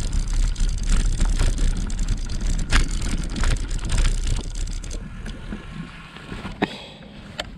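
Wind buffeting a helmet or bike-mounted action-camera microphone over tyre and road rumble from a moving e-bike, with sharp rattling clicks from the bike. After about five seconds the rumble drops off as the bike slows, leaving a few isolated clicks.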